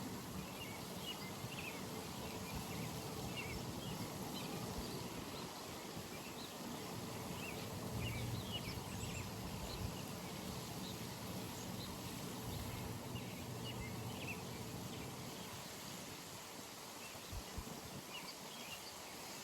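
Pond ambience: many short high chirps from small wildlife scattered throughout, over a steady low rumble.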